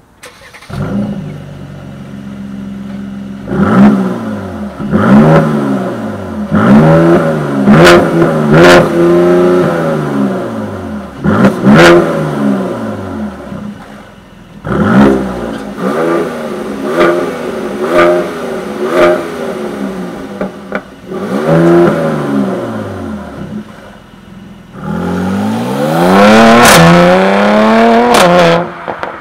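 Mercedes-AMG C43's twin-turbo 3.0-litre V6 starting up and idling briefly, then revved in a series of quick blips that rise and fall in pitch, with a longer rev near the end. Sharp exhaust crackles come at several of the peaks.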